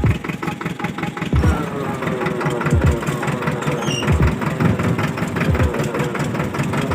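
Tractor engine running with a rapid, even firing beat and heavier low thumps about every second and a half; it cuts off abruptly at the end.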